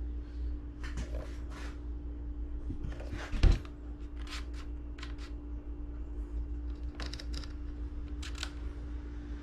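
Handling noise: scattered short clicks and rustles, with one louder knock about three and a half seconds in, over a steady low hum.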